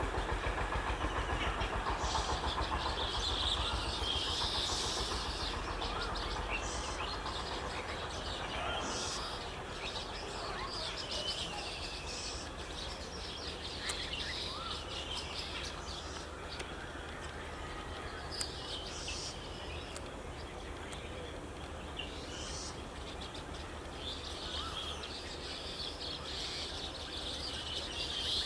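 Birds chirping and calling over open-air background noise, with the low rumble of a train dying away over the first ten seconds or so.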